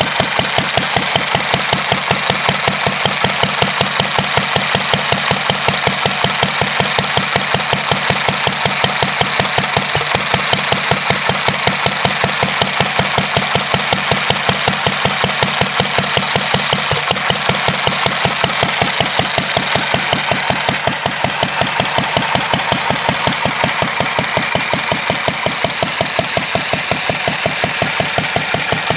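1945 Petter A 1.5 hp single-cylinder stationary engine running steadily, with an even, fast beat of firing strokes that holds constant throughout.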